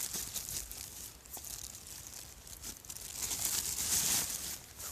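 Plastic packaging crinkling as it is squeezed to let the air out. There are two bouts: one at the start and a louder one about three seconds in.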